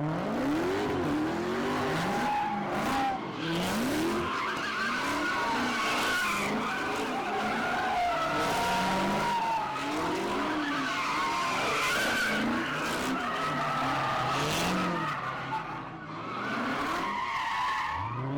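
A car spinning its tyres: the engine revs up and down over and over while the tyres squeal.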